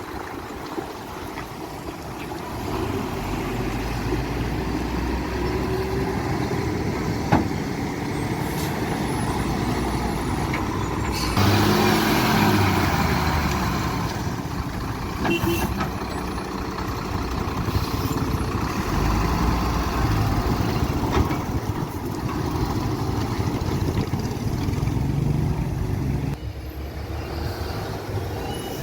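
Heavy loaded trucks' diesel engines running steadily, with a sharp click about seven seconds in and a louder, noisier passage around twelve seconds.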